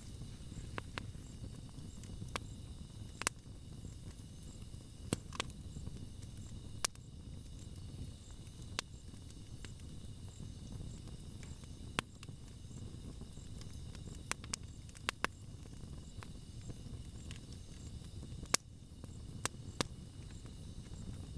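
Wood campfire burning with a low steady rumble and irregular sharp crackles and pops, a few close together around the middle and near the end.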